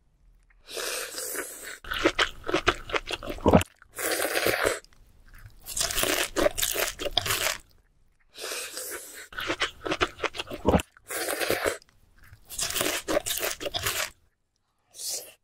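Close-miked eating: a person crunching and chewing a very large mouthful of vegetables, in bursts of wet crackling and crisp clicks with short pauses between them.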